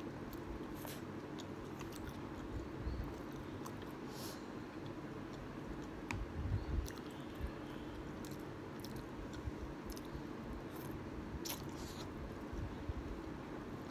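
Close-up eating sounds of a person chewing and biting kimchi ramen with chicken: wet mouth clicks and chewing, with a louder bite about six and a half seconds in, over a faint steady hum.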